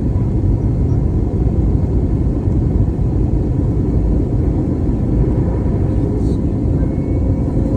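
Airbus A321neo's steady low rumble of engine and airflow noise, with a faint steady hum riding above it.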